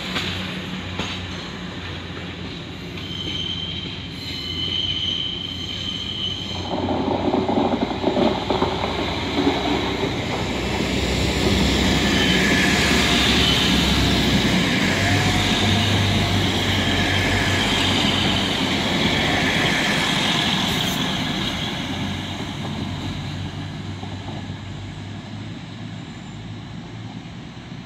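A train passing through a station, with a high wheel squeal on the rails. The noise builds from about seven seconds in, is loudest in the middle, and dies away near the end.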